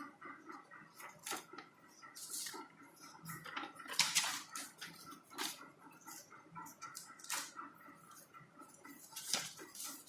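Packaging of a pair of JBL earphones being handled: scattered light clicks and rustles of box and plastic, loudest about four seconds in.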